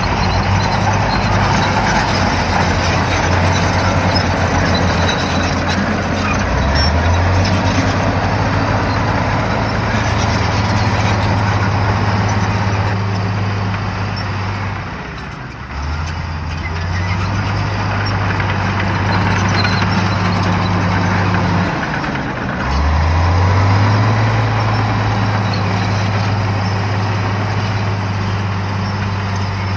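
Shantui bulldozer's diesel engine running hard, its pitch dipping and revving back up a few times as the machine works.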